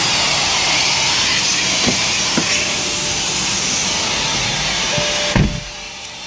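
Car-wash equipment hissing steadily and loudly, then cutting off with a thump about five seconds in.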